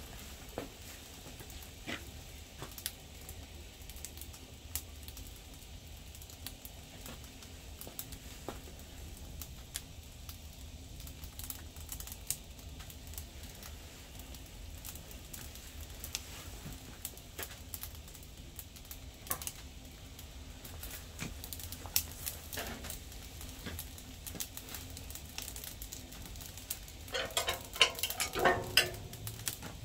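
Firewood crackling in a wood-burning stove, with sharp, irregular snaps and pops. Near the end come a few louder knocks and metallic clatter.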